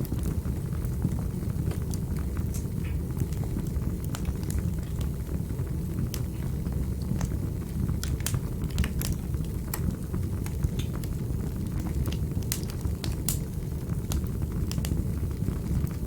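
Fire burning in a fireplace: a steady low roar with irregular sharp crackles and pops scattered throughout, a few of them louder around the middle.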